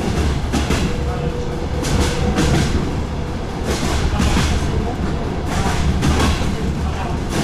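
Inside a DR1A diesel railcar's passenger car under way: wheels clattering over rail joints in uneven knocks, about one or two a second, over a steady low rumble.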